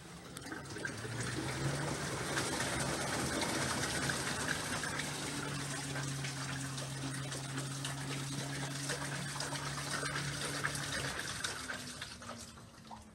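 LG 6.5 kg washing machine taking in water: a steady rush of water into the drum with a low hum under it, swelling in over the first second or two and easing off near the end.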